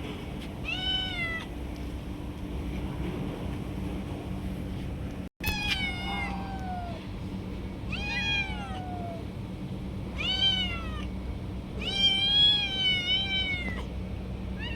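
Stray cat meowing repeatedly, about six meows, several falling in pitch at the end and the longest near the end, over a steady low hum.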